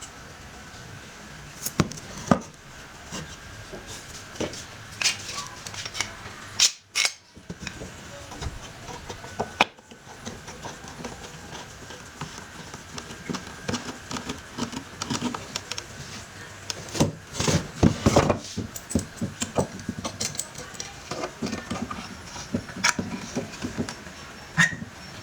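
Workshop handling sounds: irregular clinks and knocks of metal parts and tools, with a denser run of louder knocks about two thirds of the way through.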